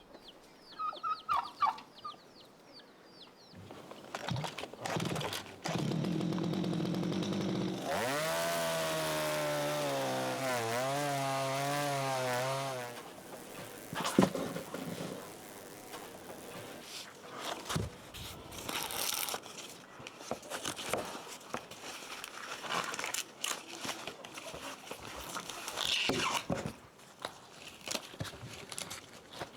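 Chickens cluck briefly. Then a small engine starts up, rising in pitch, and runs loudly for about five seconds with a wavering pitch before stopping. Scattered rustling and knocks follow.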